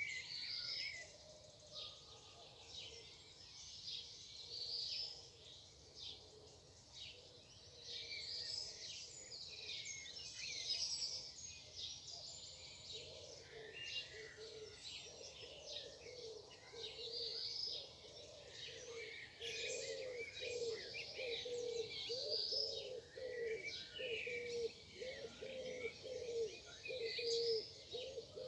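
Morning chorus of several songbirds, overlapping high chirps and trills. From about halfway through, a lower call repeated rapidly joins in and keeps going.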